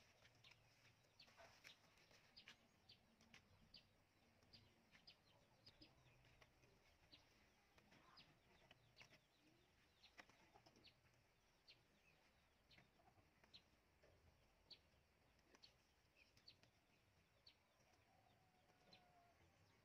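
Faint, short high chirps from a bird, repeating irregularly about once or twice a second over a quiet background hiss.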